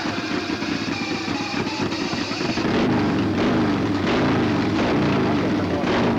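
Racing motorcycle engines running hard, getting louder about three seconds in, with the pitch sliding up and down as the machines go by.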